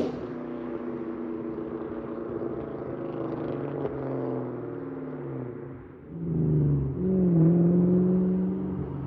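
2003 SVT Mustang Cobra's supercharged 4.6-litre V8 through a Borla exhaust, running at low revs off the throttle. Its pitch falls for a couple of seconds, dips briefly about six seconds in, then the engine gets louder and holds a steady note.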